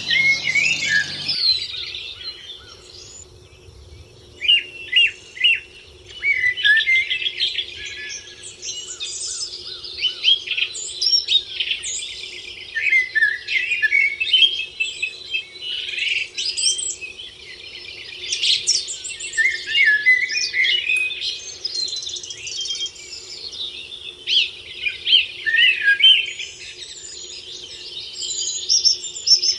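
Chorus of many songbirds singing at once: overlapping chirps, rapid trills and sliding whistles, with a faint steady low hum underneath.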